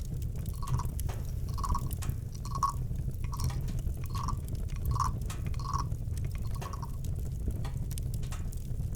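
Campfire crackling with sharp scattered pops over a steady low rumble. A run of about nine short, drip-like calls, a little under one a second, from a night animal, which stops about two seconds before the end.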